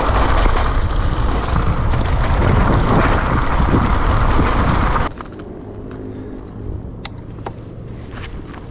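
Wind rushing over the microphone and tyre rumble while riding the Kugoo Kirin V3 Pro Plus electric bike at speed. The noise cuts off abruptly about five seconds in, leaving a much quieter low steady hum with a few light clicks.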